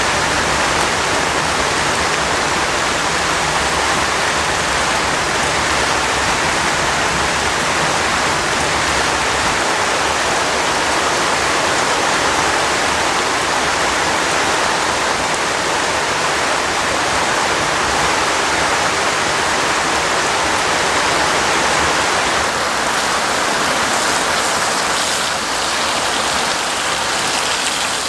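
Heavy rain falling in a steady downpour, an even hiss throughout.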